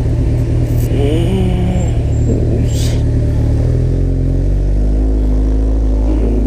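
Kawasaki Ninja ZX-14R's inline-four engine running under the rider while moving through city traffic; its note drops and settles to a steadier, lower hum about four seconds in. A brief wavering, rising-and-falling tone passes about a second in.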